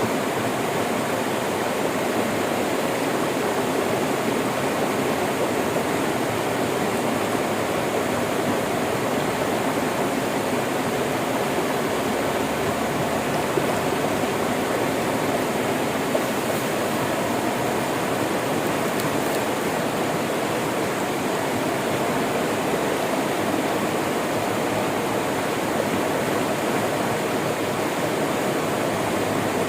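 River water flowing: a steady, even rush with no other sounds.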